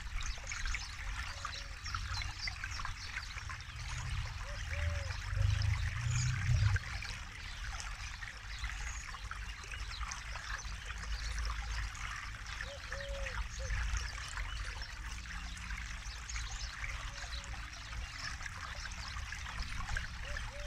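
River water running steadily over stones, with a few small gurgles. A low rumble swells from about four to seven seconds in.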